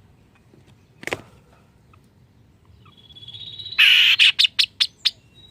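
Kaso-kaso songbird calling: a single sharp note, then a thin high note that swells into a loud harsh burst and a quick run of about five sharp notes.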